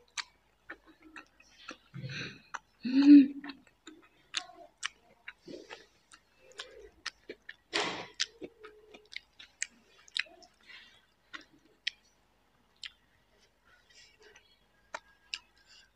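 Close-miked eating sounds: wet chewing, lip smacks and sharp mouth clicks scattered irregularly, from a person eating rice and raw vegetables. About two to three seconds in comes a short, louder, low vocal sound from the eater.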